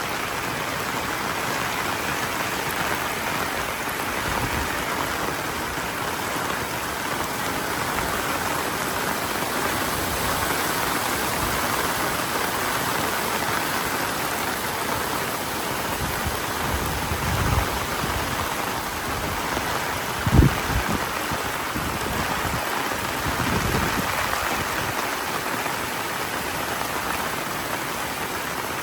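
Heavy monsoon rain falling in a steady downpour. A few short low thumps come in the second half, the sharpest about two-thirds of the way through.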